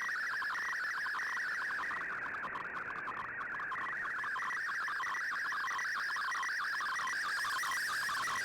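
A shortwave digital-mode data signal (MFSK) from the radio receiver: a continuous, dense warble of rapidly hopping tones packed between about 1 and 2 kHz, with shortwave hiss behind it.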